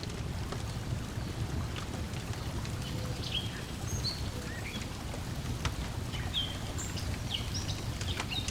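Ambience mix of a crackling wood fire with scattered pops over a steady low wash of lapping lake water. Short bird chirps come in through the middle and latter part.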